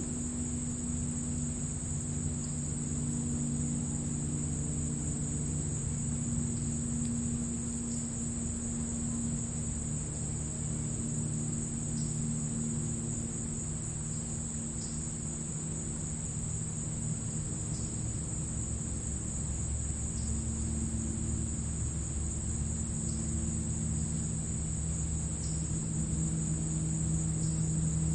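Crickets trilling in a grass field, a steady high continuous chorus, over a low hum with slowly shifting tones. Faint short high chirps come every few seconds.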